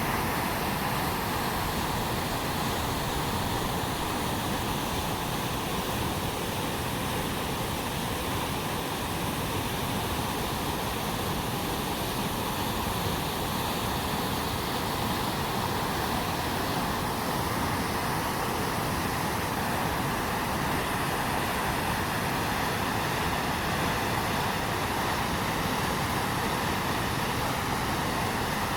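A river in flood after heavy rain, its swollen, muddy water rushing in a steady, unbroken noise.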